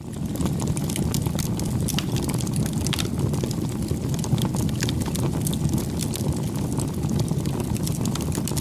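Wood fire burning with a steady low rush of flames and frequent sharp crackles and pops, fading back in right at the start after a brief dropout.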